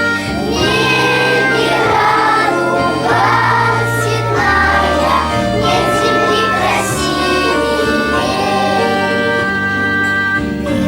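Children's choir singing over instrumental accompaniment.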